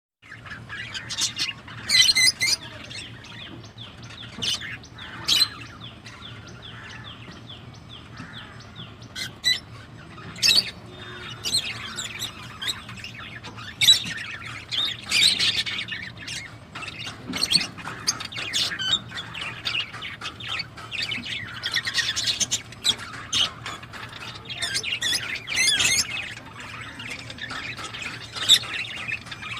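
Pet peach-faced lovebirds and budgerigars chattering, with frequent loud sharp squawks over continuous chirping, above a faint steady low hum.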